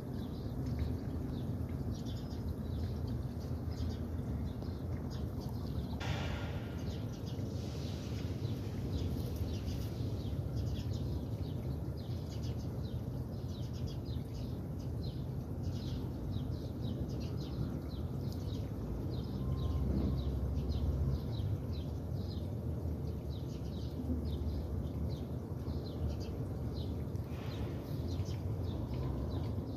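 Outdoor background of birds chirping in many short high notes over a steady low rumble.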